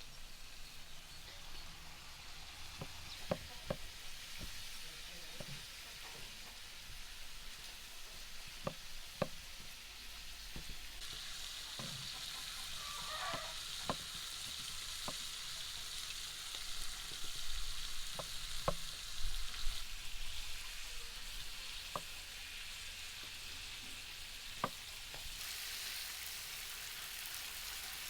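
Food sizzling as it fries in hot fat, with scattered sharp taps and clicks. The sizzle grows louder and hissier about eleven seconds in, eases off around twenty seconds, and rises again near the end.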